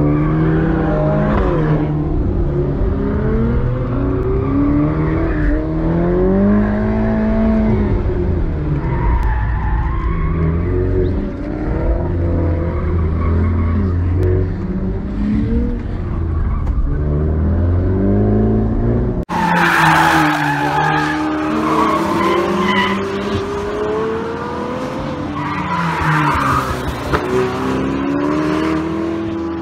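Ferrari Portofino's twin-turbo V8 heard from inside the cabin on a track lap, its revs rising and falling through the gears over a deep rumble. About 19 seconds in the sound cuts to another car following on track: sports car engines revving, with tyre noise from hard cornering.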